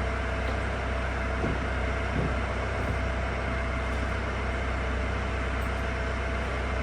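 Steady mechanical running noise: a low rumble under a rushing hiss, with a faint steady whine.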